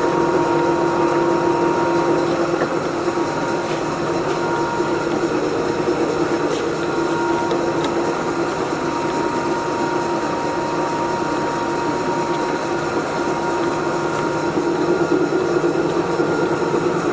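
LeBlond hollow-spindle engine lathe running steadily under power with the half nut engaged, its drive giving an even mechanical hum with a held whine.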